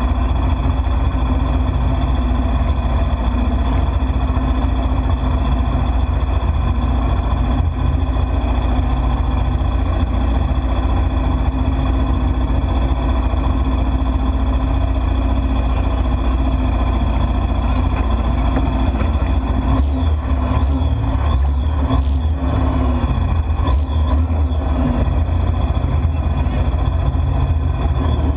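Jet ski engine running steadily, its note shifting a little about twenty seconds in.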